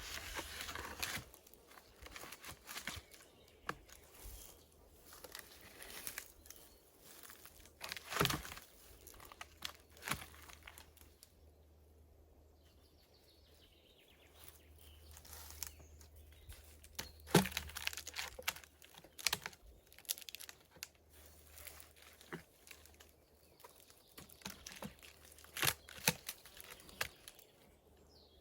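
Dry brush being handled: irregular rustling and crackling with scattered sharp snaps and knocks, the loudest about eight seconds in and again past halfway, easing off briefly in between.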